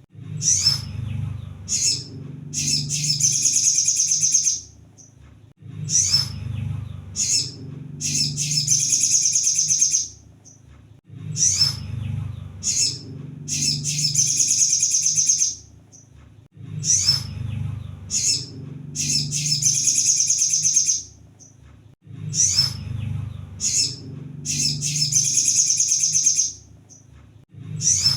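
A kolibri sogon sunbird singing: a high, rapid, twittering trilled phrase of about three to four seconds, repeated about every five and a half seconds with short pauses between, like a looped lure song. A low hum sounds under each phrase.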